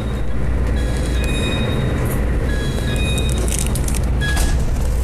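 Interior of a moving local passenger train: steady low rumble of the train running on the rails, with a few brief high-pitched squeaks.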